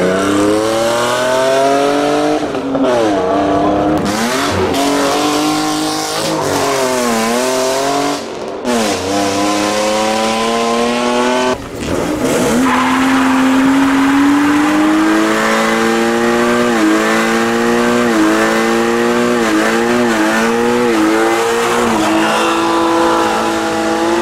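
A modified car's engine revving hard, its pitch climbing and dropping again and again, then held high with small rises and dips in the second half. Tyres squeal under it.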